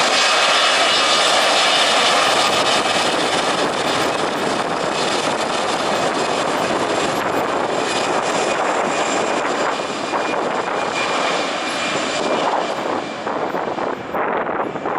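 Jet airliner's engines as it passes on landing: a high whine over a steady roar, easing off somewhat near the end.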